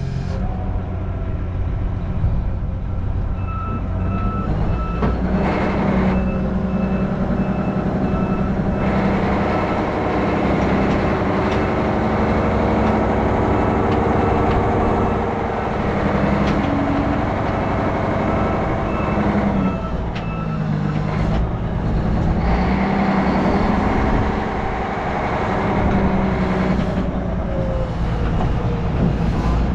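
Heavy diesel equipment running steadily under load, with a reversing alarm beeping repeatedly through much of the first two-thirds and then stopping.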